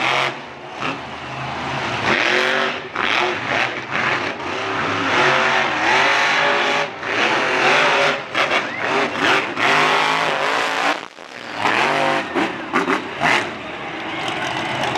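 Monster truck engines revving hard, the pitch climbing and falling again and again, with a brief drop in loudness about eleven seconds in.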